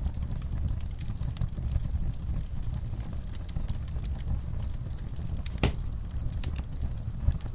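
Wood fire crackling in a fireplace: a steady low rumble of burning with scattered sharp pops and snaps, one louder pop near the end.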